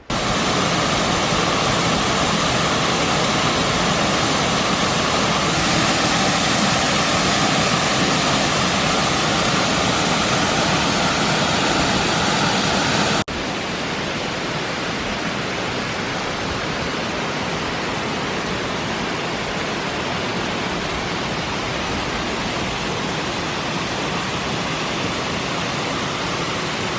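A waterfall rushing: a loud, steady roar of falling water that drops a little in level suddenly about halfway through.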